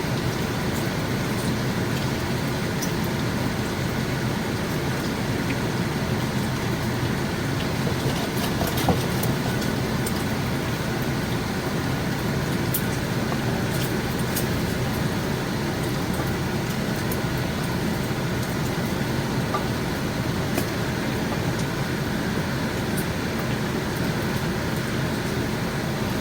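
Bacon frying in a pan, with small sizzle crackles and pops over the steady whir of a kitchen exhaust fan. One louder knock about nine seconds in.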